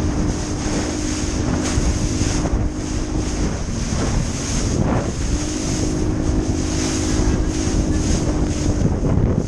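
Small motorboat under way: its engine runs with a steady hum under a loud rush of wind buffeting the microphone and water against the hull. The engine note dips lower for a moment in the middle, then comes back.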